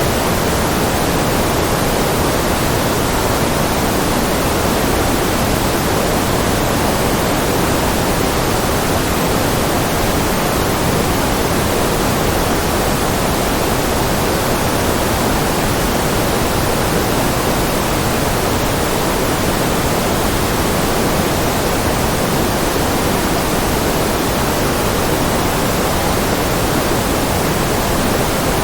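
Steady, unbroken white noise: an even hiss across the whole range, with a little more weight in the lows and middle, and no changes or events.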